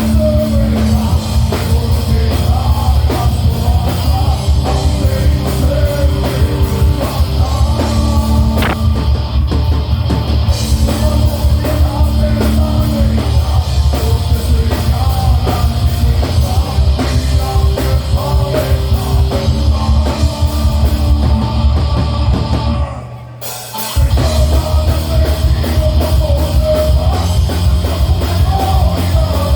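Metal band playing live, with distorted guitars, bass and drums. The music breaks off briefly about three quarters of the way through, then the band comes back in.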